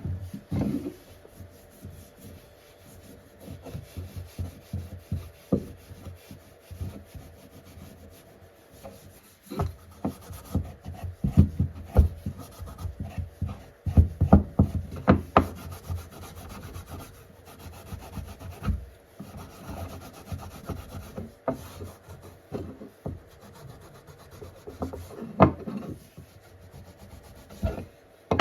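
Hand rubbing and scraping on wood, broken by irregular knocks and taps that are busiest in the middle.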